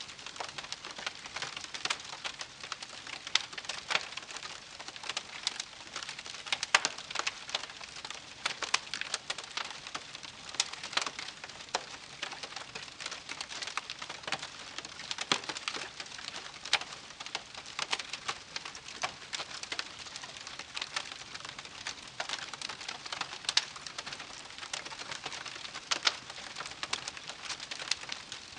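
Wood campfire crackling: irregular sharp pops and snaps, several a second, over a soft steady hiss of burning.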